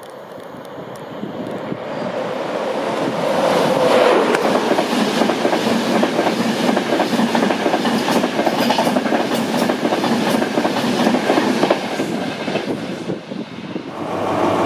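LNER InterCity 225 electric train running through the station at speed. A rush of noise builds as it approaches and is loudest as the front passes, about four seconds in. Then comes a long rapid clickety-clack of coach wheels over the rail joints, fading away near the end.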